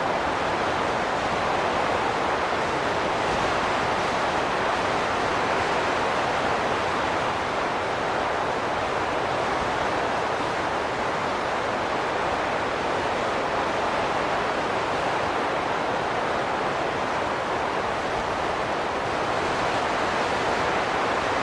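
Wind blowing: a steady rushing noise that swells and eases slightly, with no distinct whistling tone.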